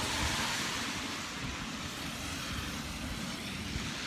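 Steady hiss of traffic on a wet road, a little louder during the first second.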